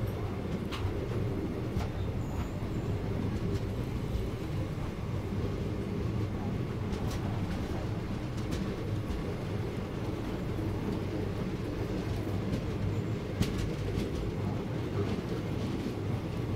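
Passenger train coach of the Koyna Express running along the track, heard from the coach doorway: a steady low rumble with a few sharp clicks at irregular intervals.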